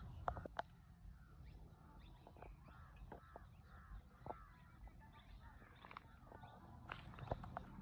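Birds calling faintly: a string of short, arched chirps, with a few sharp clicks near the start and near the end, over a low steady rumble.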